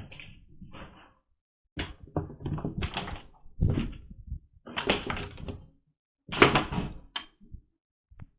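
Irregular thumps and scuffling in several bursts of a second or less, then a short tap near the end.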